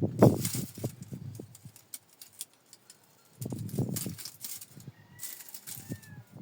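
Stones knocking and scraping against each other as rocks are handled and stacked, in two bursts of clatter about three seconds apart. A bird chirps faintly near the end.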